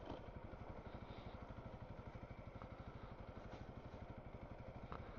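Honda CRF300L dual-sport motorcycle's single-cylinder engine running steadily at low revs, a faint, even pulse of firing strokes.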